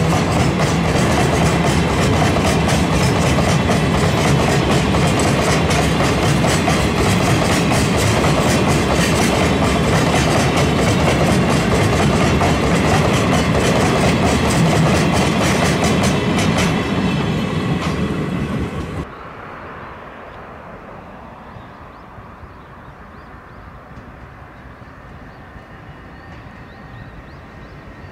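Train passing close by, its wheels clacking rapidly over the rail joints. It fades about 17 seconds in, and a couple of seconds later the sound drops suddenly to a much quieter background rumble.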